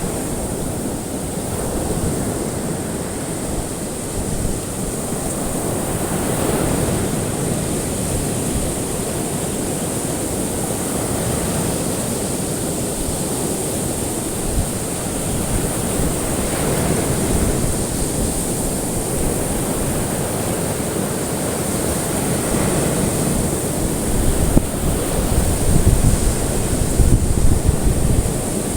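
Ocean surf: a continuous wash of waves that swells and eases every several seconds, with heavier, choppier surges near the end.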